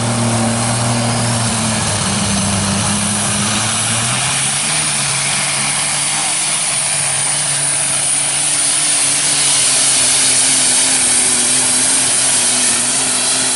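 Light super stock pulling tractor's turbocharged diesel engine running flat out under load down the track, with a high turbo whistle over the engine. The engine note steps up about four seconds in, and the sound grows a little louder in the second half.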